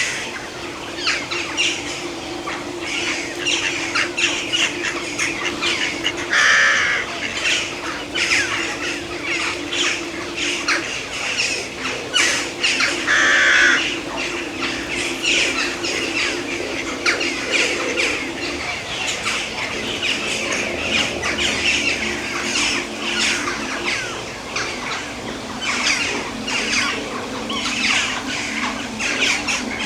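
Many birds squawking and calling over one another in a dense, continuous chorus, with two louder squawks, one about a third of the way in and one near the middle. A low steady hum runs underneath.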